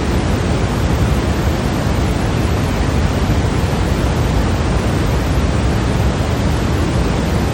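Continuous white noise: an even, unbroken hiss with no change in level, heavier in the low end than at the top.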